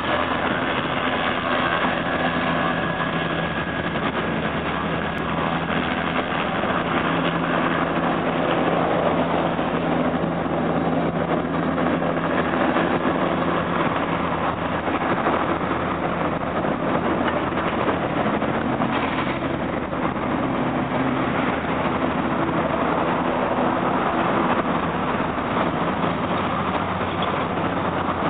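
Car engines running at low speed, a steady hum as a slow line of cars drives by.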